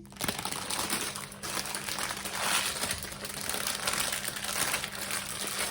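Plastic packaging of a diamond painting kit crinkling and rustling continuously as it is handled, with many small crackles throughout.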